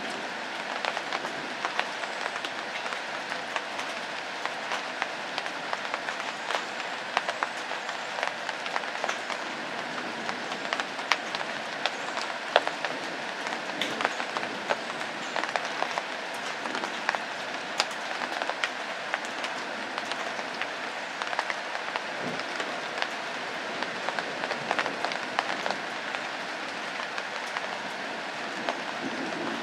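Steady rain falling, a constant hiss with many sharp single drop hits scattered through it.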